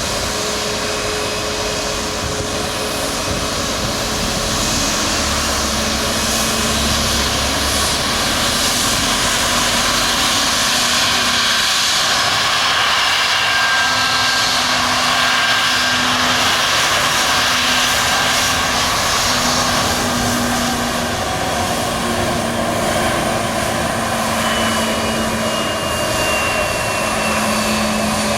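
Airliner engines running loud and steady at close range, a dense noise with a few faint whining tones, swelling somewhat in the middle.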